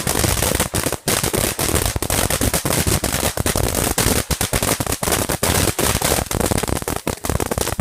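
Firecrackers going off in a rapid, unbroken string of sharp pops, many each second, with a loud crackling rattle throughout.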